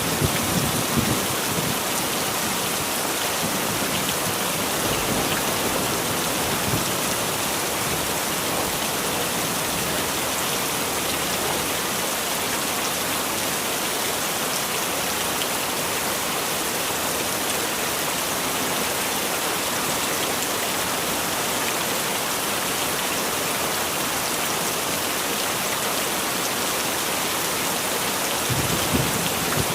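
Heavy rain falling steadily, an even hiss of drops on surfaces. A low rumble of thunder sounds at the very start and again near the end.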